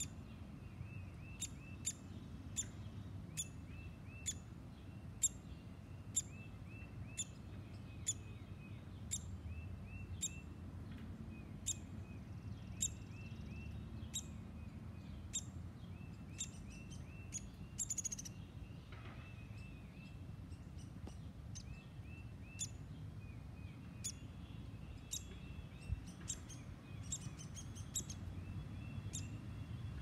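Birds calling, a fledgling woodpecker among them: a steady run of quick soft chirps with sharp, high call notes repeating about once or twice a second, over a low background rumble.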